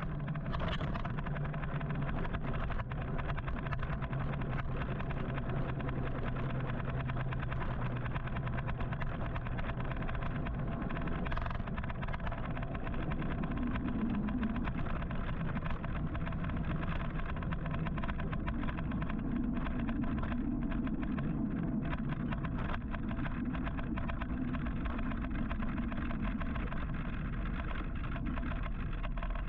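Steady city street traffic noise: car engines running nearby, with road and tyre noise.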